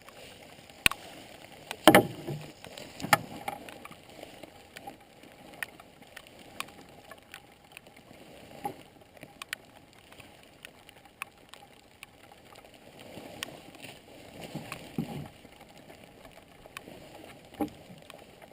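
Canoe being paddled: soft water swishes from the paddle strokes, with scattered sharp knocks and taps on the hull, the loudest about two seconds in.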